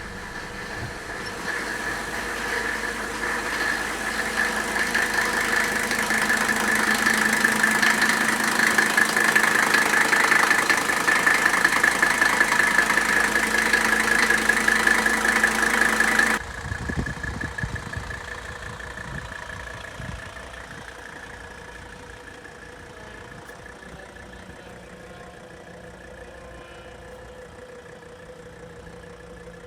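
1984 Mercedes-Benz 300TD's five-cylinder diesel engine idling steadily after a cold start. It grows louder over the first half, drops off suddenly about halfway through, then fades gradually.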